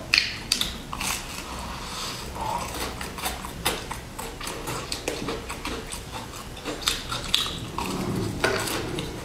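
Close-miked biting and chewing of a sesame-crusted chocolate sandwich biscuit, with many short crisp crunches and mouth sounds, a bite at the start and another near the end.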